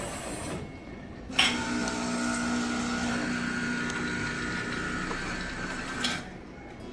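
Jura Z10 automatic coffee machine running its motor with a steady mechanical hum. The hum starts abruptly about a second and a half in and stops about six seconds in. A short hiss comes at the very start.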